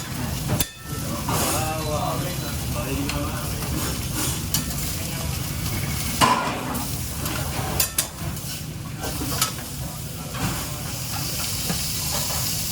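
Food sizzling and frying in a pan in a commercial kitchen, with scattered clicks and clinks of utensils against cookware over a steady low hum. The sizzle grows brighter near the end.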